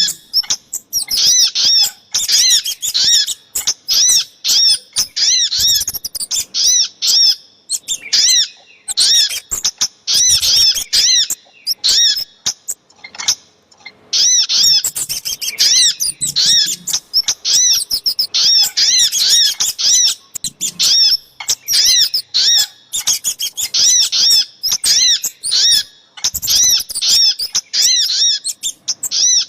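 Bird-lure recording of sogok ontong (little spiderhunter) and kemade calls: rapid strings of short, high-pitched chirps, repeated in bursts with brief pauses.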